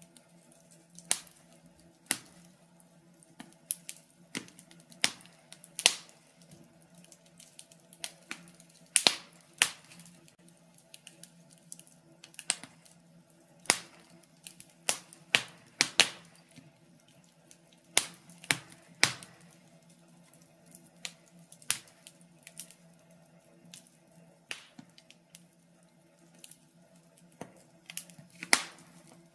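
Wood fire crackling in a fireplace: irregular sharp pops and snaps, about one a second, over a faint steady low hum.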